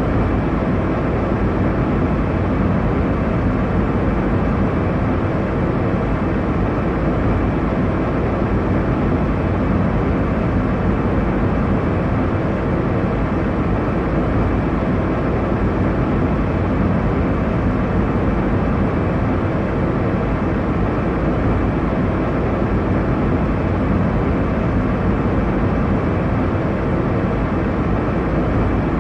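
Airliner cabin noise in cruise: a steady, even rush of engine and airflow noise, deepest in the low range, with no changes.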